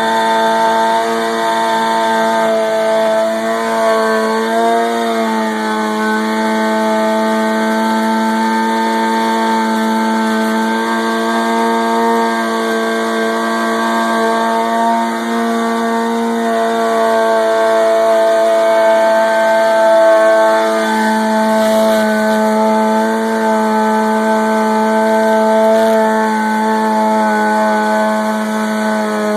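Motorcycle engine held at high revs, running steadily through a stationary burnout with the rear tyre spinning against the floor. The pitch wavers slightly about five seconds in and again around twenty-one seconds.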